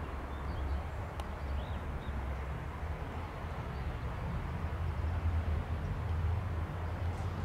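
Low, steady rumble of an approaching electric locomotive-hauled train, still distant and growing slightly louder, with a few faint bird chirps above it.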